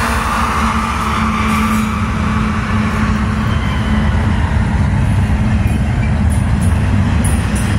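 Freight train passing close: the trailing diesel locomotives give a steady engine drone that fades over the first few seconds. It gives way to the continuous rumble of double-stack intermodal well cars rolling over the rails.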